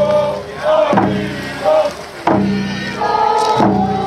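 Voices singing together in long held notes over a drum struck about once every 1.3 seconds.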